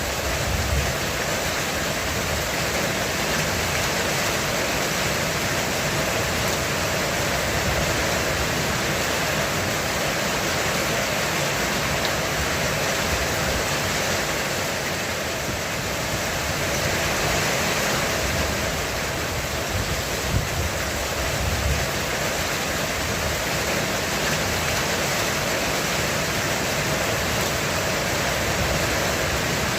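Heavy rain falling steadily on a roof, a dense even hiss, with a few brief low rumbles underneath, the clearest about twenty seconds in.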